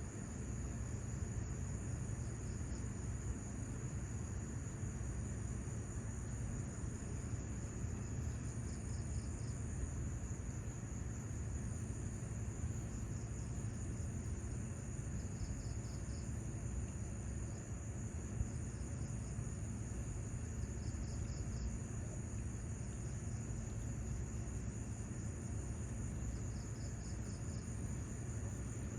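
Insects chirping: a steady high buzz, with a short pulsed trill about every six seconds, over a low steady rumble.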